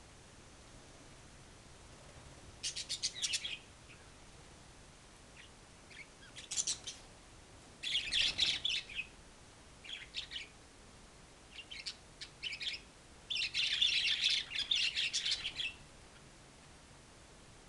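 Malay hanging parrot (serindit) giving bursts of rapid, high-pitched chirps, several short bouts and a longer run near the end.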